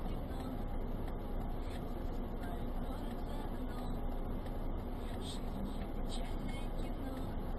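A car driving, with a steady mix of engine and road noise and no sudden impacts.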